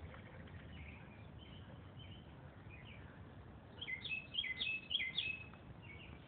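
Small birds chirping in the woods, with a louder run of quick, downward-sweeping chirps about four seconds in.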